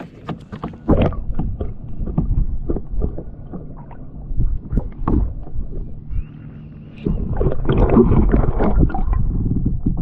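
Knocks and clatter of handling on a kayak, with water splashing and gurgling as a bass is let back into the lake, over a low rumble that gets heavier about seven seconds in.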